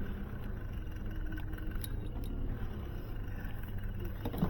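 A steady low rumble with a few light clicks, the sharpest near the end.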